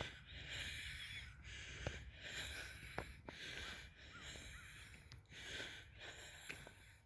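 A person's breathing close to a phone microphone while walking: faint, regular hissing breaths about a second each, with a few sharp taps.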